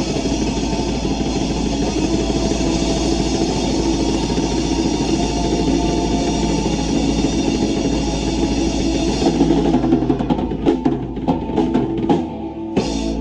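Rock band playing loud with a drum kit, in a dense steady wash of sound. About ten seconds in it breaks into a handful of separate drum hits as the song ends.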